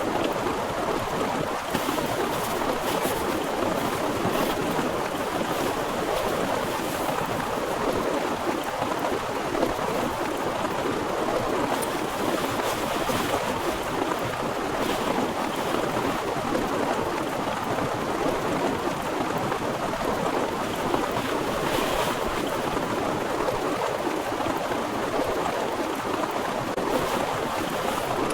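Heavy rain pouring down steadily, a dense even hiss with scattered sharper drop hits.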